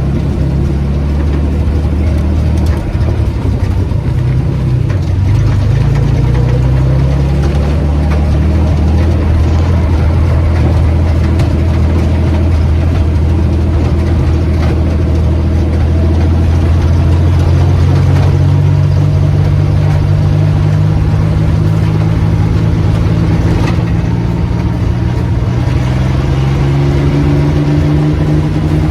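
1935 Ford rat rod's engine running loud while the truck is driven, its pitch holding steady for long stretches and rising near the end as it picks up revs.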